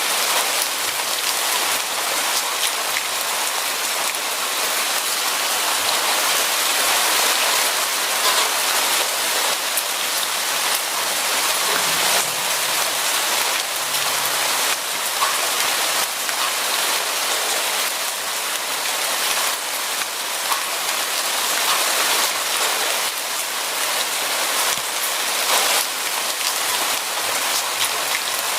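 Steady rain falling on a surface, an even hiss dotted with many small drop patters.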